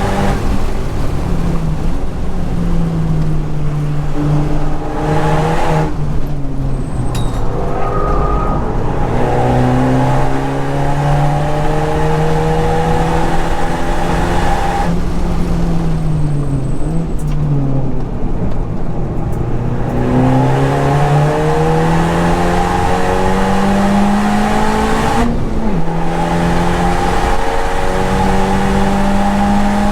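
Honda Civic Type R's turbocharged 2.0-litre four-cylinder engine driven hard on a track lap, its pitch climbing under throttle and sliding down as the car slows for corners, twice over. Near the end the pitch drops suddenly at a gear change and then climbs again.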